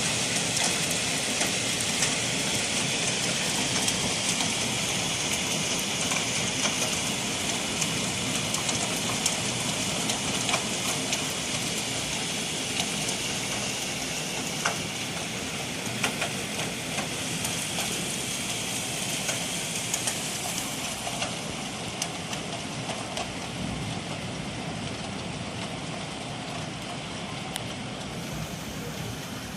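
Hail falling: a dense steady hiss scattered with sharp clicks of individual hailstones striking, slowly easing off.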